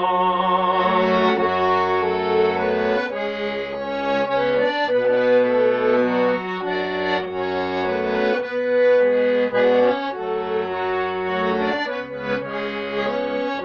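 Accordion playing an instrumental interlude of sustained chords over a bass line that changes every second or two. A male voice holds the last sung word with vibrato about a second in, then the accordion plays alone.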